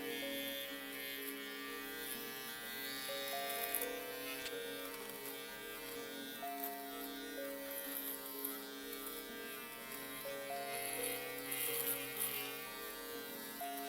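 Steady buzz of an electric shaver, used as white noise, under a slow instrumental melody of held notes that change pitch about once a second.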